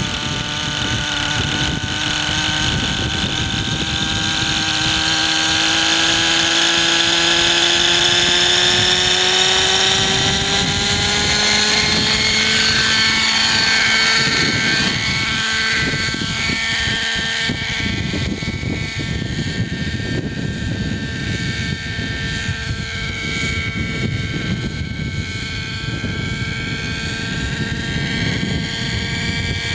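Hirobo Sceadu model helicopter's .50-size two-stroke nitro engine and rotors running in flight. The pitch rises gradually over the first half, then holds steady. The fuel mixture is off, so the revs run lower than they should.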